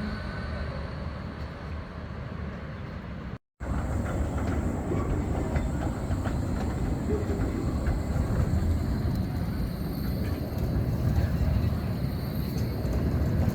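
Škoda 52T ForCity Alpha tram running on street track, a steady rumble with faint clicking from the wheels and rails. The sound drops out for an instant a few seconds in and comes back louder.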